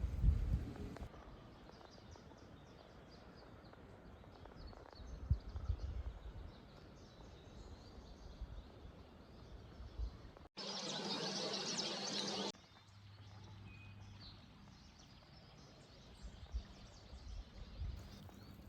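Faint woodland birdsong: many short, high chirps and calls over a soft outdoor background, with occasional low thumps. About ten seconds in, a loud, steady rushing hiss cuts in for about two seconds and stops abruptly.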